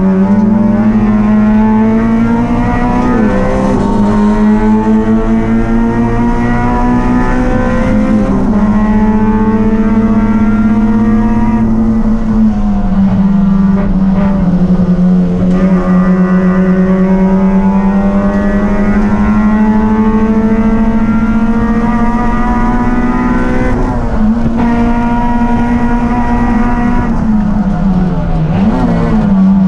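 Race car engine running hard at a nearly steady high pitch, which dips and recovers briefly several times as the car laps.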